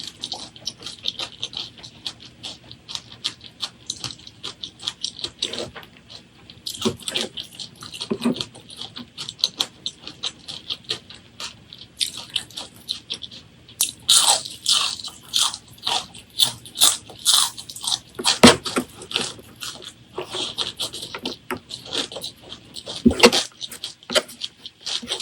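Close-miked eating: a steady run of quick, wet chewing clicks and crunches, with a few heavier thumps, the loudest about two-thirds of the way through.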